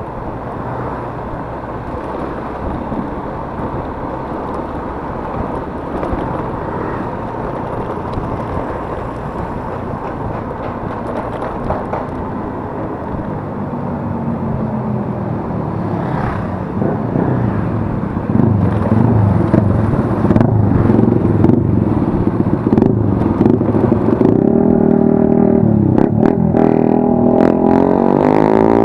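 Yamaha Mio S 125 scooter's single-cylinder engine running under way, with wind noise on the microphone. Past the middle the engine note grows louder, and near the end it climbs steadily in pitch as the scooter speeds up.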